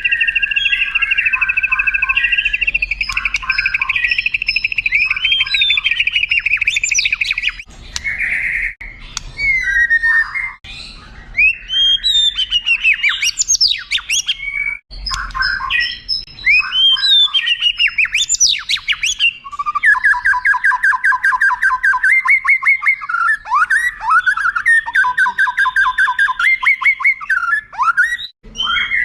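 White-rumped shama singing a long, varied song. It opens with a fast trill held for several seconds, moves into loud rising and falling whistles, and a few seconds from the end runs into a rapid string of repeated notes.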